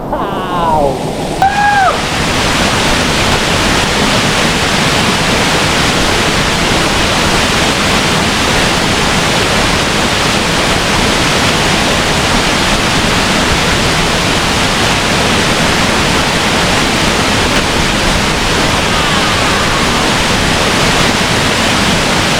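Waterfall pouring: a loud, steady rush of falling water that builds in over the first second or two and holds even throughout.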